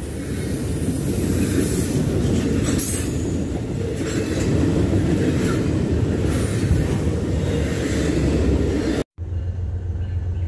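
Double-stack intermodal freight train rolling past close by: a loud steady low rumble of wheels on rail, with short high wheel squeals coming and going. About nine seconds in it cuts off abruptly, and a quieter steady low hum follows.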